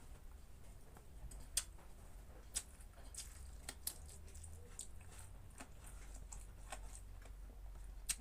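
A person eating pork close to the microphone: irregular wet mouth clicks and lip-smacks of chewing, over a faint low hum.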